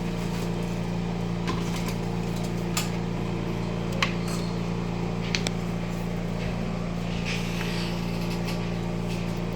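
A steady low mechanical hum from a running motor, with a few light clicks and taps scattered through it.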